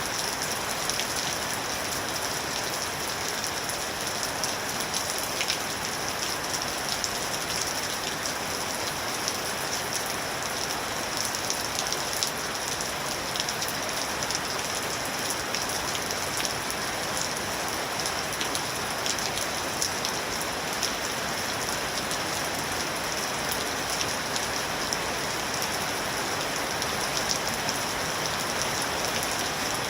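Steady rain falling on a surface, an even hiss with many small individual drop taps scattered through it.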